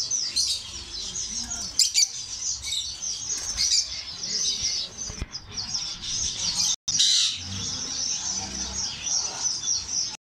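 Many caged small birds chirping at once in a dense, continuous high-pitched chorus of short overlapping calls. It breaks off twice for a split second, about seven seconds in and near the end.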